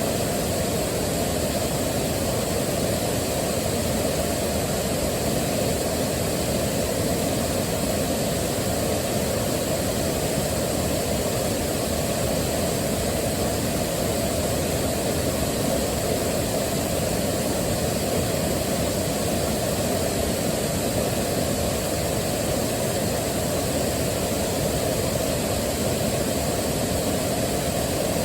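Waterfall: the steady, deep rush of falling water, unchanging throughout.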